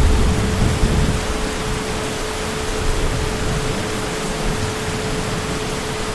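Heavy rain falling in a steady, even hiss, with a low thunder rumble swelling in the first second or so. A steady tone sits under the rain.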